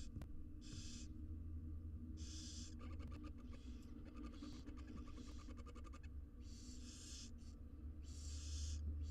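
Barn owl nestlings giving repeated hissing begging calls, each about half a second long, with a fast run of clicks lasting about three seconds in the middle. A steady low electrical hum lies underneath.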